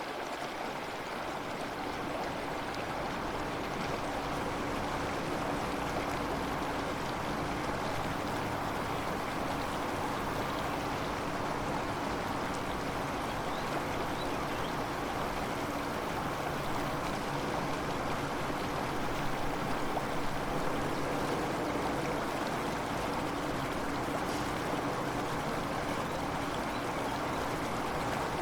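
Steady running water, like a flowing stream, holding an even level throughout.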